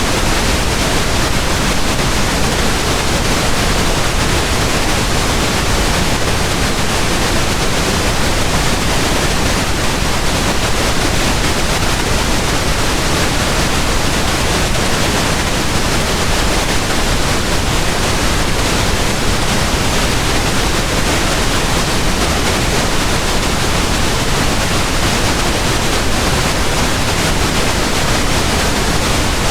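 Pink noise: a steady, even hiss spread across all pitches, with no change or events.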